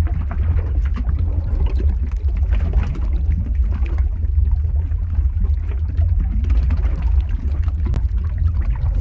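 Lava-flow ambience sound effect: a steady deep rumble with dense, irregular crackling over it.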